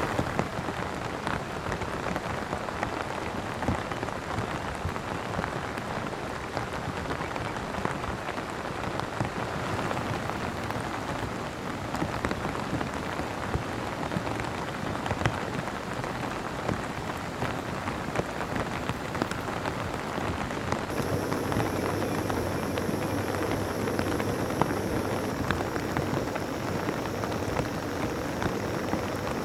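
Steady rain, with individual drops pattering sharply on a surface. About two-thirds of the way through the sound shifts, becoming fuller, with a faint steady high tone added.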